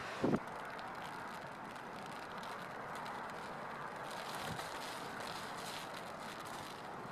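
Steady rushing wind noise on the microphone, with a brief low thump of a gust buffeting it just after the start.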